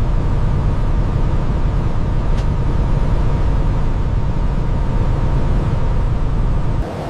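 Heavy semi-truck running, a loud steady low rumble that cuts off abruptly near the end.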